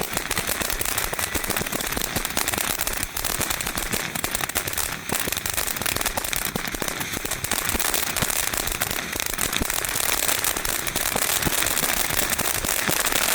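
Happy Family Fireworks 'Out of the Sky' ground fountain firework burning, giving off a dense, steady stream of crackles over a hiss.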